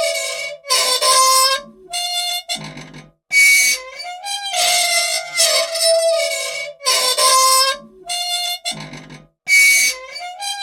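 Squeaky old machine's dry, unoiled moving parts squealing in a repeating cycle: a series of high, wavering, reedy squeals separated by short gaps, the same sequence coming round about every six seconds.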